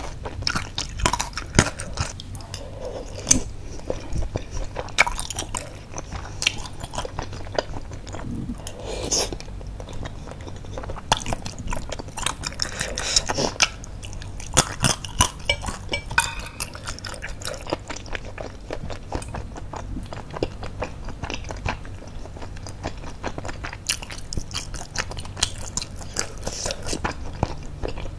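Close-miked mouth sounds of eating baso aci, chewy tapioca meatballs with noodles in spicy broth: wet chewing and biting with many short sharp clicks and smacks, and a few longer noisy mouthfuls about 9 and 13 seconds in.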